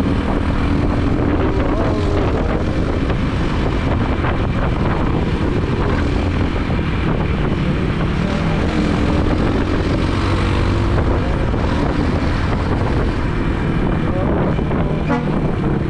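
Motorbike engine running steadily while riding, its drone shifting in pitch a little with throttle, with road and wind noise.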